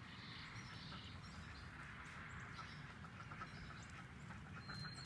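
Faint farmyard ambience: ducks in a nearby pen quacking in the background, with small birds chirping over a steady hiss. A quick run of calls comes near the end.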